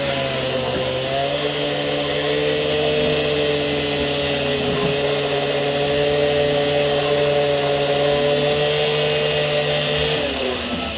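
Gas-powered saw running steadily under load as it cuts along a line, with a brief dip in pitch near the start; it winds down about a second before the end.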